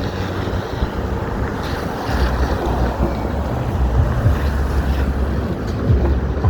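Wind buffeting the microphone, a heavy low rumble that grows stronger about two seconds in, over the noise of city street traffic.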